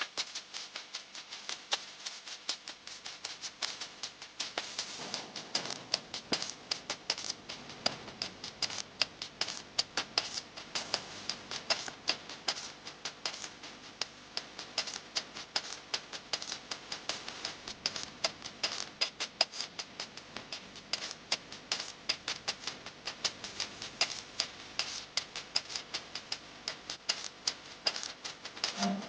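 Heavy rain falling steadily, with many sharp drops ticking and tapping irregularly, several a second, close by.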